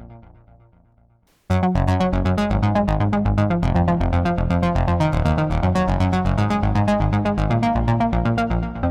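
Cherry Audio Ensoniq ESQ-1 software synthesizer playing electronic music. A sound fades away almost to silence; then, about a second and a half in, a fast repeating pattern of notes over a deep bass line starts abruptly and runs on steadily.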